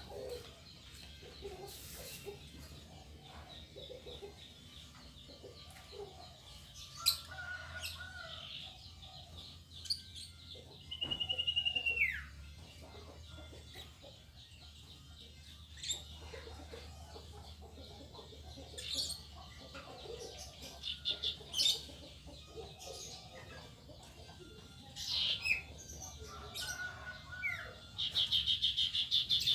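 Caged lovebirds and other small songbirds chirping and chattering, with a fast trill twice, about a third of the way in and at the end, and one clear whistled note that slides downward.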